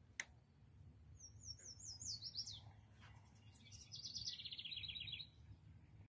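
Songbird singing: a run of quick, high slurred notes, then a faster trill about three and a half seconds in. A single sharp click just after the start.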